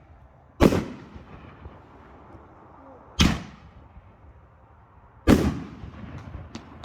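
Three loud firework booms, each echoing away, about two to two and a half seconds apart, with faint crackles near the end.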